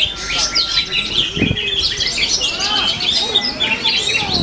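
Oriental magpie-robin singing its fast, varied song of whistles and trills amid a dense, continuous chorus of other songbirds chirping.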